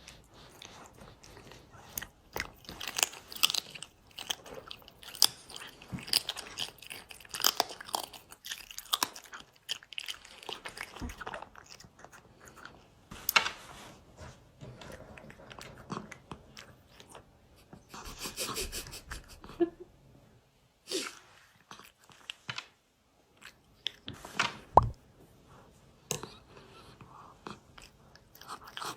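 A cat eating its food, chewing and biting in irregular bouts of short clicks with brief pauses between.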